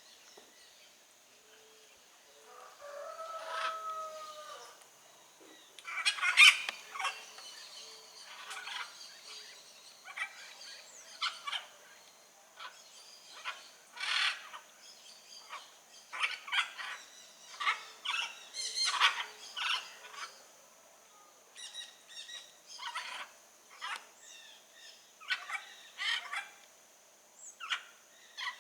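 Blue-and-yellow macaws giving short, harsh squawks, repeated many times, with a clearer gliding call about three seconds in. A steady high tone runs underneath.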